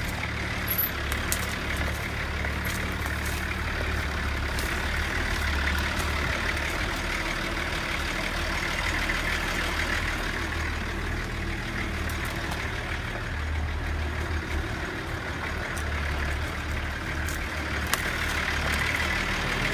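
Truck engine running steadily, a continuous low rumble with a hiss of road or wind noise over it.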